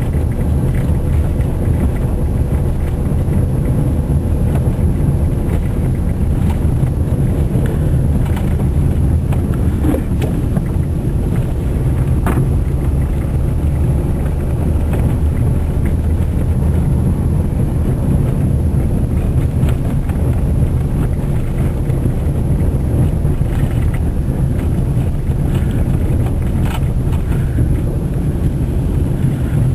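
Steady low rumble of a car driving, engine and tyre noise heard from inside the cabin, with a faint steady high whine and a few light clicks.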